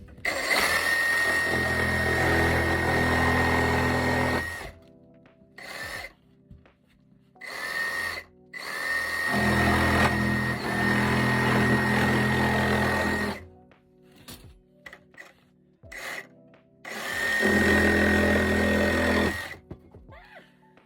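Handheld power tool, a drill-type motor, run in three long bursts of a few seconds each with two short blips between, each run carrying a steady high whine.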